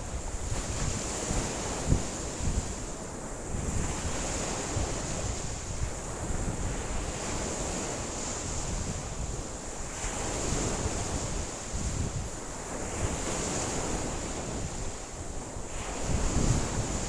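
Wind-driven lake waves breaking and washing ashore, swelling and easing every few seconds, with strong wind buffeting the microphone in low rumbles and brief thumps.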